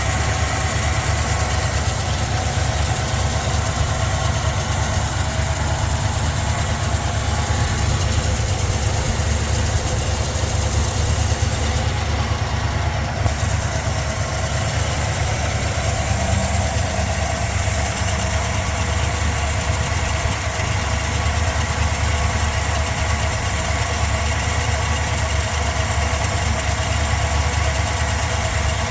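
A 1975 Pontiac Grand Ville Brougham's V8 engine idling steadily with an even, low, throbbing exhaust note.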